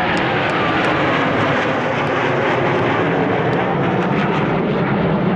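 Military jet aircraft flying past low, with a loud, steady rushing engine noise that holds without a lull.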